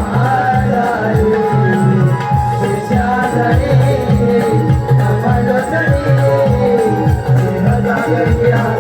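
Konkani Naman folk music: a hand drum beating a quick, steady rhythm under a wavering melody line.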